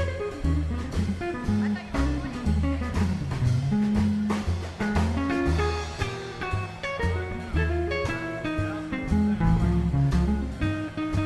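Live swing jazz band playing an instrumental passage: melody lines over upright bass and drums, with guitar prominent.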